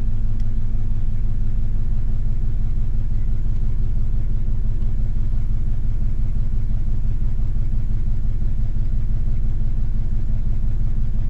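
2006 Dodge Charger R/T's 5.7-litre Hemi V8 idling steadily with an uneven, fluttering note: the misfire is back despite a newly replaced sensor.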